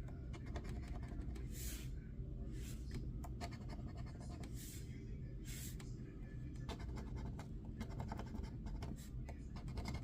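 Scratch-off lottery ticket being scratched: a run of short, irregular scraping strokes over a low steady background hum.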